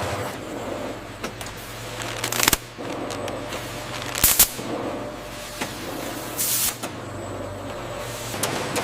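Packaging-line machinery running with a steady hum, scattered clicks and three short hissing bursts.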